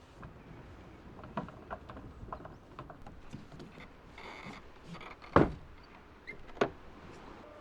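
A camping fridge's plastic fittings being handled: light clicks, a short scrape, then two sharp knocks about a second apart.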